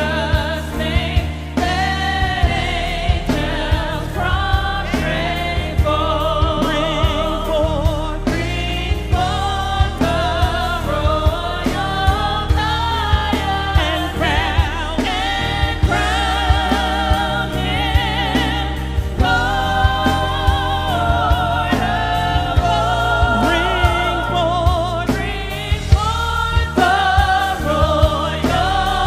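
Gospel worship music: a church praise team singing with strong vibrato over a live band with a steady bass line and percussion.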